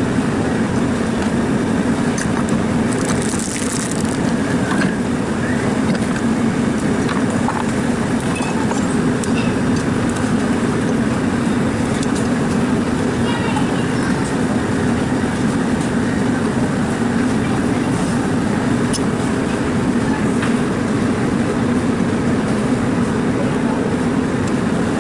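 Steady drone of an evaporative air cooler's fan running close by, even in level throughout, with scattered faint clicks and a brief high hiss about three seconds in.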